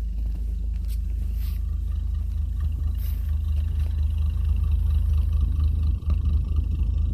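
1952 Nash's straight-six engine idling steadily after a sub-freezing cold start, a low even rumble. It dips briefly about six seconds in.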